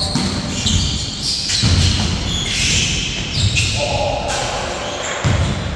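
Basketball game in an indoor hall: the ball bouncing on the court several times, with players' shouts and short high squeaks from the floor.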